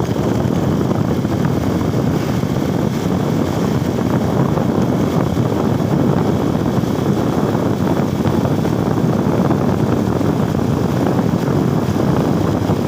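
Steady rumble of wind and engine noise on the microphone of a moving motorcycle.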